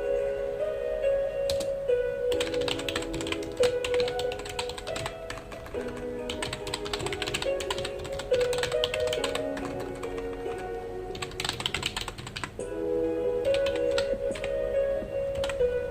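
Computer keyboard typing: rapid key clicks in a long run through the middle, sparser keystrokes near the start and end, over soft background music of held tones.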